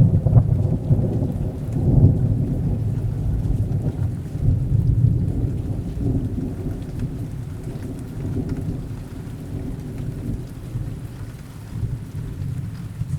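Thunder over steady rain: a sudden low crack at the start grows into a long rolling rumble that slowly fades, with a smaller roll near the end.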